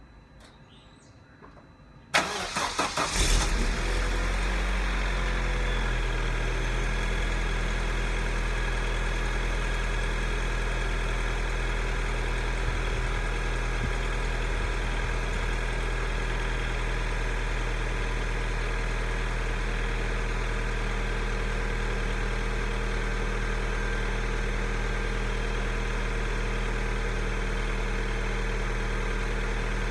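Vauxhall Astra Mk4 Turbo's turbocharged four-cylinder engine, cranked on a cold start about two seconds in. It catches after about a second of cranking, flares briefly, then settles into a steady idle.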